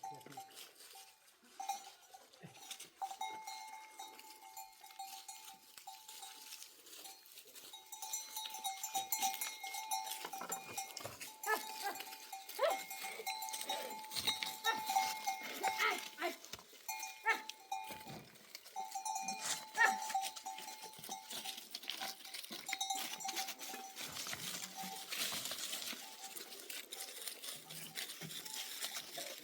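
Livestock bells ringing and clanking irregularly, with many overlapping strikes, getting louder from about eight seconds in.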